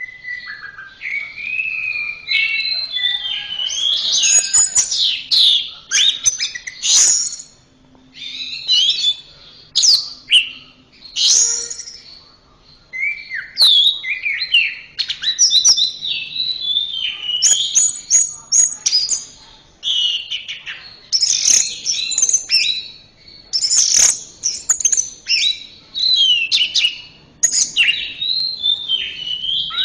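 Orange-headed thrush singing a long, varied song of quick whistled phrases that slide up and down, with short pauses between phrases.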